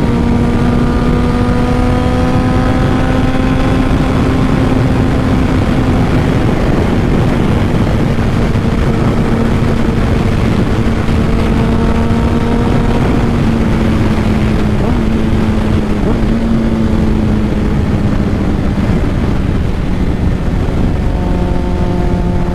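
Honda CBR600RR inline-four with a Two Brothers full exhaust running at a steady cruise under heavy wind rush on the helmet microphone. The engine note holds one pitch, eases slightly about two-thirds of the way through and drops a step near the end as the bike slows.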